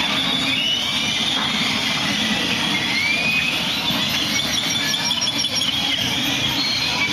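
A large flock of birds calling all at once: dense overlapping chirps, squeaks and short whistles, some rising and some falling, over a low background rumble.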